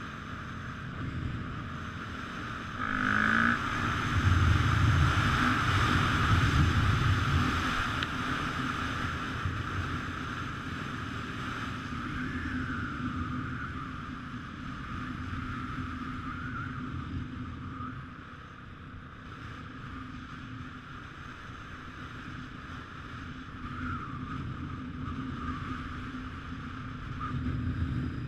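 Honda CRF450R motocross bike's single-cylinder four-stroke engine running under way, with wind rushing over the microphone; it grows louder for a few seconds near the start, then settles.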